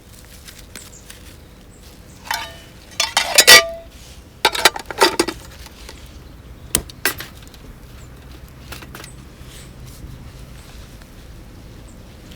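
Metal camp gear clinking and clattering: two quick bunches of knocks that ring briefly, then two sharp clicks a little later.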